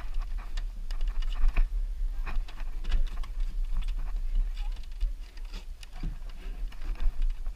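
A runner's footsteps on the course, heard as irregular clicks and crunches several times a second, over a steady low rumble on the microphone.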